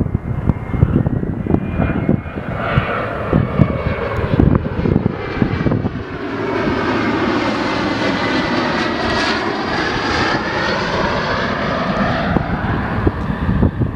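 An airliner passing overhead: its engine noise swells to a peak about two-thirds of the way through, then fades. Wind buffets the microphone, heaviest in the first few seconds.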